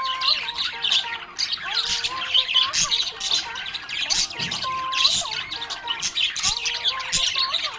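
Budgerigars chirping and warbling nonstop: a dense chatter of quick, high chirps and squawks, with short whistled notes sliding up and down.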